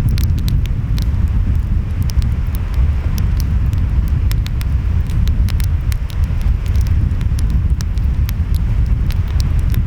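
Wood fire crackling with many short, sharp pops at irregular intervals, over a steady low rumble of wind and surf that is the loudest sound.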